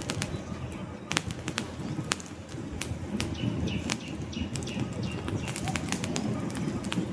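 Wood fire crackling: irregular sharp pops and snaps from burning logs over a steady low rumble of flames, with a faint high whistle lasting about a second near the middle.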